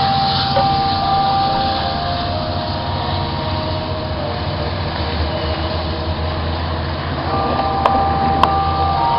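Metrolink passenger train running by: a steady low rumble with thin high tones over it that shift in pitch. Two sharp clicks about half a second apart come near the end.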